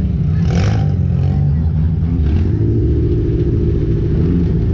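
Junk race car's engine running hard under load, steady and loud, with a short burst of clattering noise about half a second in.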